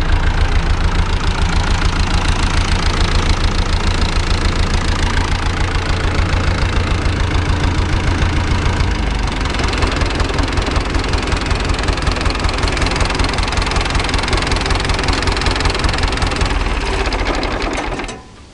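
Long 900 diesel tractor engine running with a steady pulsing beat; its note drops about halfway through, and it shuts off near the end.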